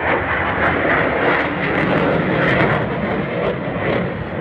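Loud, steady jet noise from a CF-18 Hornet's twin General Electric F404 turbofans in flight.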